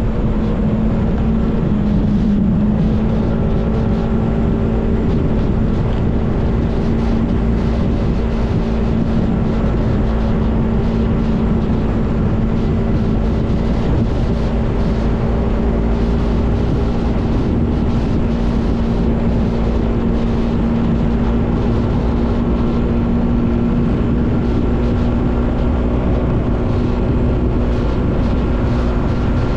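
Motorcycle engine running at a steady speed while riding, with heavy wind and road rumble on the helmet- or bike-mounted action camera's microphone.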